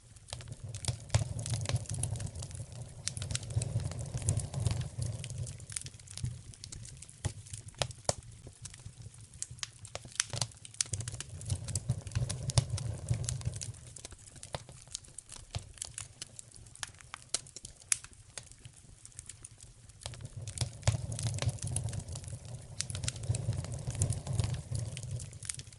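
Wood fire in a fireplace crackling, with a steady scatter of sharp pops and snaps. A low rumble swells and fades three times underneath.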